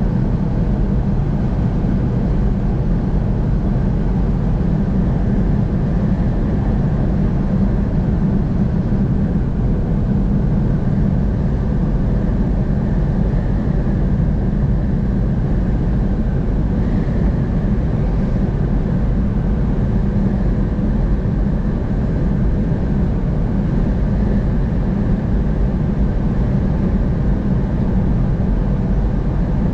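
Steady road and engine noise of a car travelling on a highway, a constant low rumble with no break or change.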